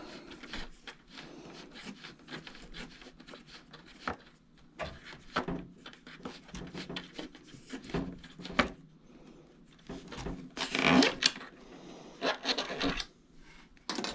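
RC airplane parts being handled and rubbed together as they are worked into position, giving irregular scrapes and clicks. A louder run of scraping comes about ten to thirteen seconds in.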